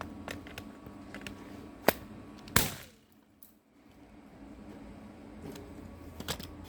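Walte PT450 nail gun firing into river rock: a sharp crack, then a louder one less than a second later that rings off briefly.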